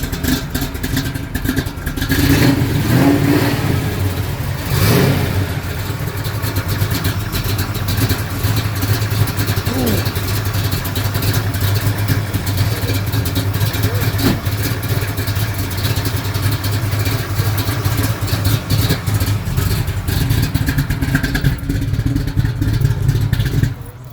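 A car engine running at idle with a steady low note. It is revved twice in the first few seconds, with the second rev about five seconds in, and given short throttle blips about ten and fourteen seconds in. The sound cuts off suddenly near the end.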